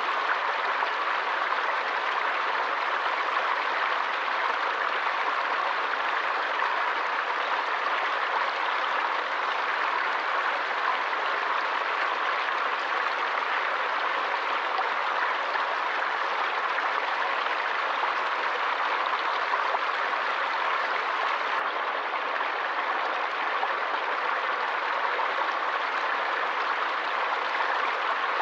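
Water of a stream flowing and splashing in a steady, unbroken rush.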